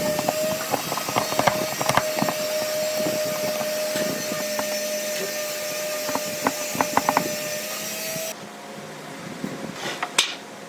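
Power tool running with a steady whine over a loud hiss, with frequent knocks and clicks of wood being worked; the machine noise cuts off abruptly near the end, leaving a few quieter knocks.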